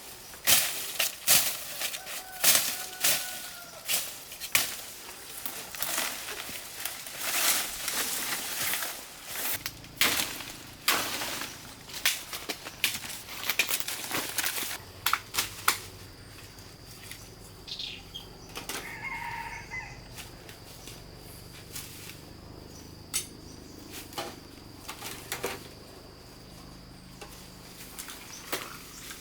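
Chickens flapping their wings in quick flurries for about the first half, then quieter with a short cluck-like call partway through.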